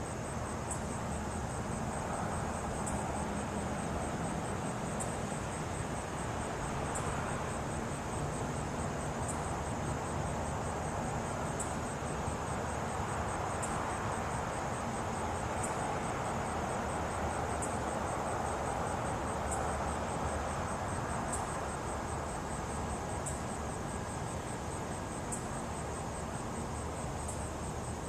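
Insects chirping steadily in a fast, even trill, with a sharper chirp about every two seconds, over a steady background hiss.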